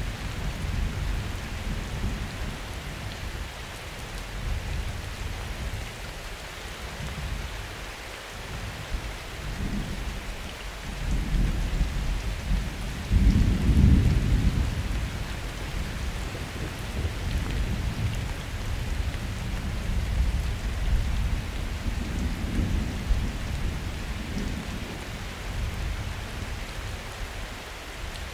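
Summer thunderstorm: steady rain with low rolling thunder that swells to its loudest about halfway through, then rumbles on more softly.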